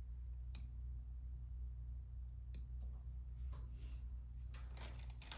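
Small plastic clicks from handling disassembled camera-lens parts: a few isolated clicks, then denser clicking and rustling near the end, over a steady low hum.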